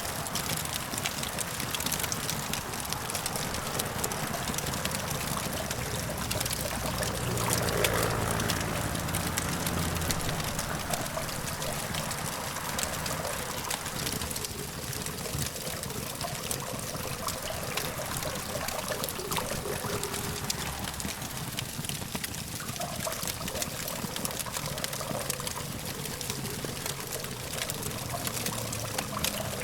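Campfire crackling and hissing, with many small pops over a steady hum of distant traffic. A low rumble swells and fades about eight seconds in.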